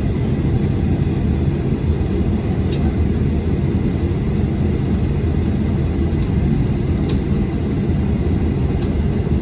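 Cabin noise inside a Boeing 737-900ER on the ground, its CFM56-7B engines at idle: a steady low rumble with a few faint ticks from the cabin.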